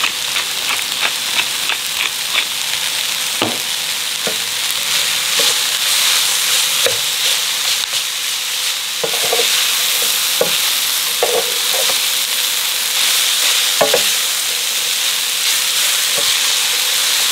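Stir-fry sizzling steadily in a ceramic-coated electric frypan while it is tossed with a wooden spatula and fork, the wood knocking against the pan now and then. For the first couple of seconds a pepper mill grinds with a run of quick, even clicks.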